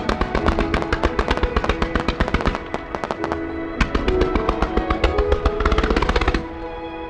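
Starmine fireworks firing in rapid succession, a dense crackle of sharp reports over music with a melody, until the barrage stops about six seconds in and only the music carries on.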